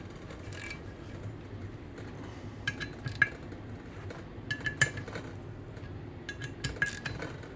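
Steel wrench clinking against the bolts and housing of a Garrett TP38 turbo as the bolts are snugged down by hand, not torqued. Sharp metallic clinks with a short ring, in three short groups.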